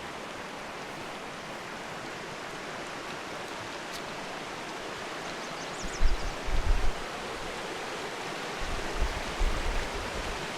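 Mountain river swollen with glacier runoff, rushing steadily over its rocky bed. Low thumps on the microphone about six seconds in and again near the end.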